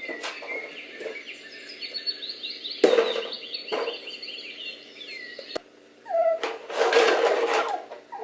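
Recorded birdsong played as a test sound: quick high chirps and twitters for about four seconds, with a sharp knock partway through. Louder bursts of noise follow near the end.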